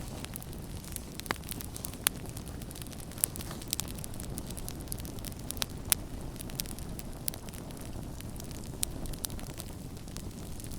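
Campfire burning steadily with a low rumble and hiss, and irregular sharp crackles and pops from the burning wood, a few of them louder.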